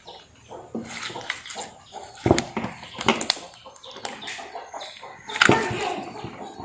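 Hands squeezing and kneading soft, wet slime made of glitter water slime and aloe vera gel slime worked together, giving irregular sticky clicks, pops and squelches. Louder squelches come a little over two seconds in and again about five and a half seconds in.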